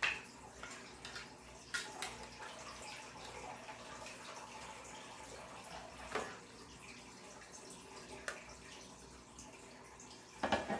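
Quiet handling noises: a few light clicks and rustles as trading cards and their packaging are handled, over faint steady room noise.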